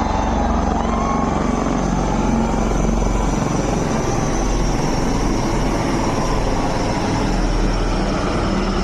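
Indian Air Force aircraft flying overhead: a steady, loud rushing engine noise with a thin high whine that slowly falls in pitch as it passes.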